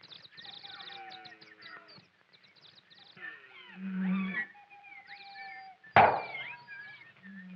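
A din of wild animal cries: shrill squawks, chattering and gliding calls with a few low, drawn-out roars. About six seconds in there is one sudden loud bang.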